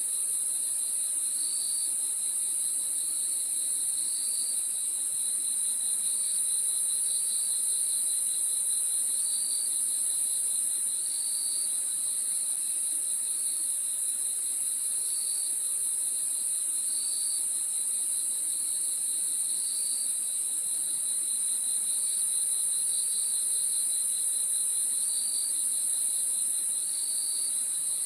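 Crickets chirping at night: a steady high trill with a lower, pulsed chirp repeating every second or two.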